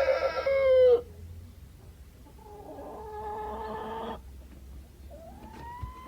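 A rooster's crow that is already under way ends about a second in. Two quieter animal calls follow, the last one rising in pitch.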